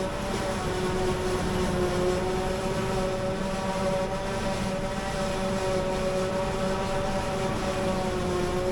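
Silage-harvesting machinery running steadily: a continuous heavy engine and driveline hum that holds several steady tones throughout, with no revving or change in load.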